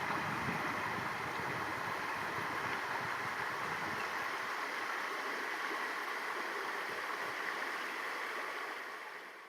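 Small river cascade: water rushing steadily over the remains of a removed weir, with a low rumble in the first few seconds, fading out near the end.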